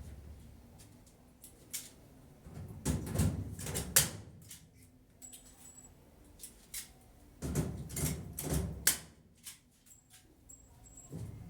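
Irregular knocks and clatters of things being handled, with two louder bouts of rattling about three and eight seconds in.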